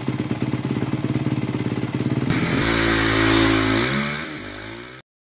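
Motorcycle engine sound effect: a fast pulsing engine note, then about two seconds in a sudden rushing hiss joins as the engine revs, its pitch falling away before the sound cuts off abruptly near the end.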